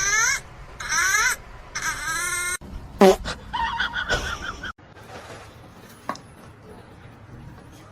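An animal calling: a harsh, pitched call repeated about once a second, then a falling cry and a few shorter calls. The sound cuts off suddenly near the five-second mark, leaving a quiet background.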